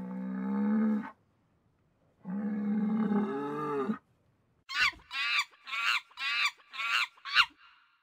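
Cow mooing twice: a long, steady moo that ends about a second in, then a second moo whose pitch drops at the end. After that comes a quick run of six short, high-pitched calls, louder than the moos.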